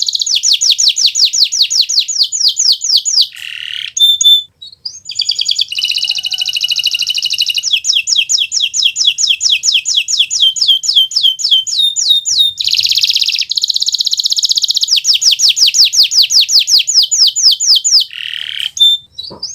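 Kenari Nusantara canary singing loudly: long runs of rapid trills, each a string of fast, high, downward-sweeping notes, with short breaks about four seconds in and near the end.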